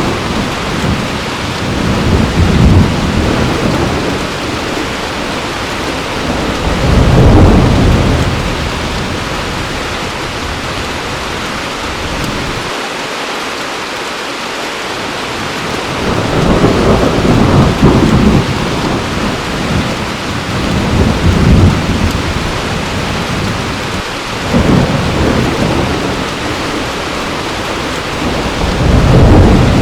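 Heavy rain falling steadily, with low rolls of thunder swelling and fading every few seconds, the strongest about a third of the way in and near the end.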